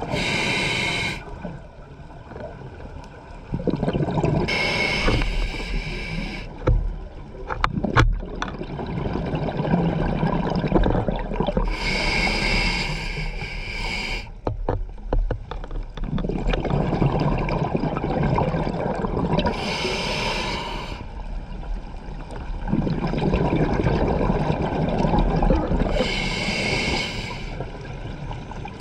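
Scuba diver breathing through a regulator underwater: five short hissing inhales, each followed by a longer stretch of rumbling exhaled bubbles, in a slow cycle every six to seven seconds. A few sharp clicks sound in the middle.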